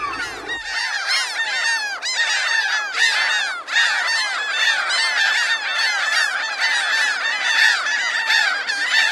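A large flock of gulls calling all at once: many short, arched cries overlapping into a continuous din.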